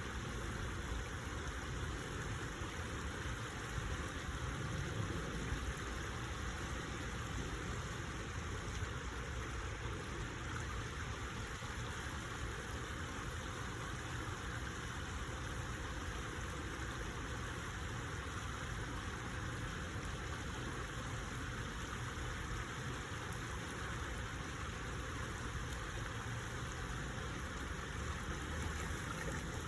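Steady rushing of stream water, unbroken throughout, with a low rumble beneath it.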